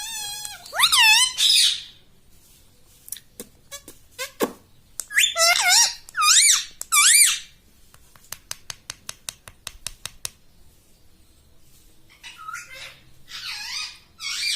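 A pet ringneck parrot giving high, warbling squeaky calls with a wavering pitch, in three bouts. Runs of quick clicks come between the bouts.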